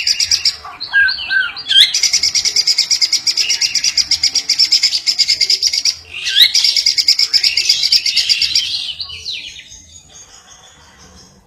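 Lovebird song used as masteran (tutor audio for songbirds), with canary-style fill-ins: two long, very fast, even trills of several seconds each, with short varied chirps between them. The song trails off and fades near the end.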